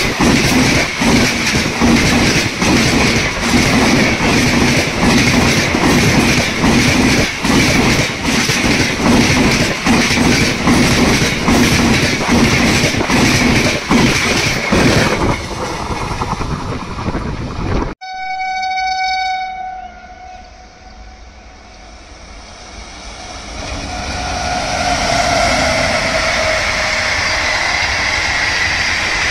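An Indian Railways train passing close by with rapid, continuous wheel clatter over the rail joints, fading about fifteen seconds in. After a sudden cut, a locomotive horn gives one short blast, and then another train grows louder as it approaches.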